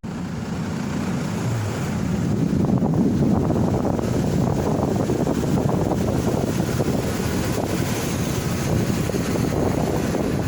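Steady noise of a vehicle driving, with a low rumble of engine and tyres and wind over it.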